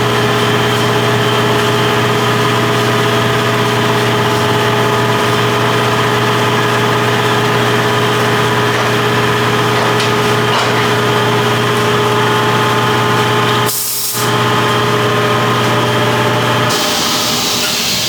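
A steady engine or motor running at an unchanging speed, with a short break about fourteen seconds in and a change in its sound near the end.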